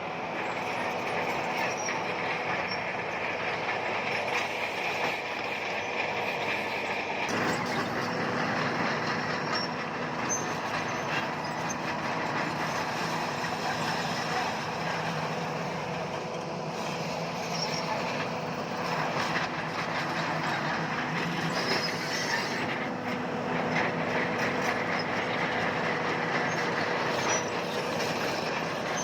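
Crawler bulldozer's diesel engine running steadily with its steel tracks moving, the sound shifting about seven seconds in.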